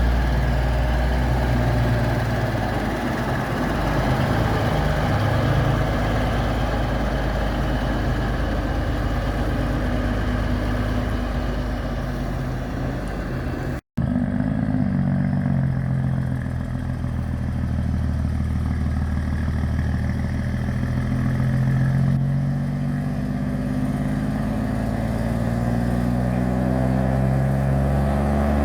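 Heavy truck diesel engines running, low and steady, with the pitch shifting as they pull. About halfway through the sound breaks off for an instant and another truck engine takes over, its pitch rising and falling.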